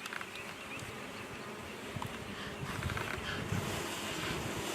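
Honey bees buzzing around an opened hive, a steady hum of many bees at once, with a low rumble and a few faint clicks underneath.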